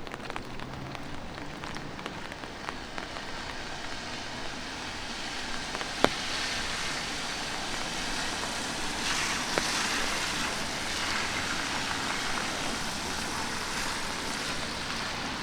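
Light rain falling in a city street: a steady hiss of rain with city background noise. A single sharp click about six seconds in, and a smaller one nearly four seconds later.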